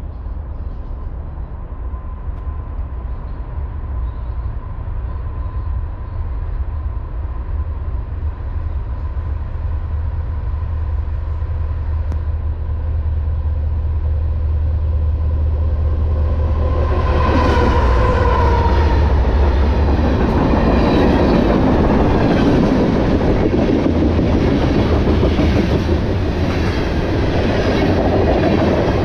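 BNSF diesel freight locomotives (a GE ET44C4 leading an ES44DC) approach with a low engine rumble that grows steadily louder under a steady high tone. They pass close by about 17 seconds in with a loud rush of noise, and the tones drop in pitch. Freight cars then follow with a repeated clatter of wheels over the rails.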